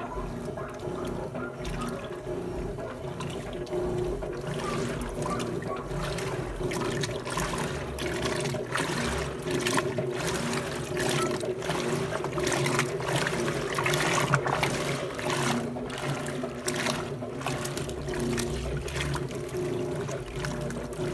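Electrolux LT12F Turbo Economia 12 kg top-loading washing machine running a load, with water splashing and trickling in the tub over a steady low hum.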